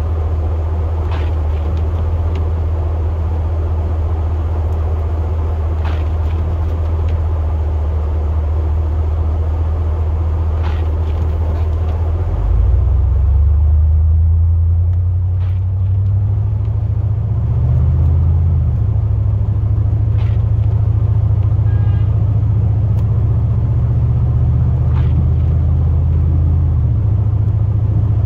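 Low, steady drone of a plow truck's engine and drivetrain heard from inside the cab, changing pitch and getting louder about halfway through and shifting again a few times as the truck's speed changes. Faint ticks come about every five seconds.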